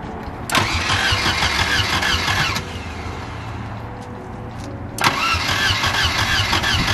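1978 Volvo 242's four-cylinder engine cranked on the starter in two bursts, a short one of about two seconds and then a longer one, without catching. It has spark but is not getting fuel.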